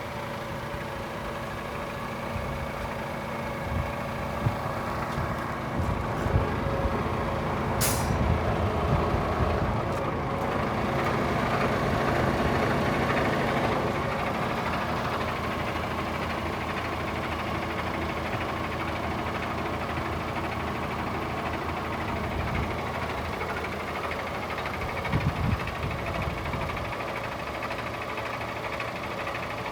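DAF CF440 tractor unit's Paccar 440 bhp Euro 6 diesel engine running steadily, with a brief sharp hiss of air released from the air brake system about eight seconds in.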